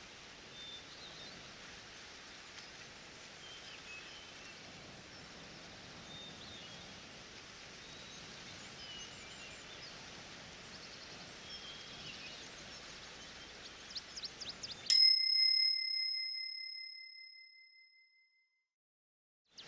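Forest ambience of steady rustling hiss with scattered small bird chirps, then a few light clicks and a single bright bell chime that rings out and fades over about three seconds to silence, the timer's signal that an interval is over.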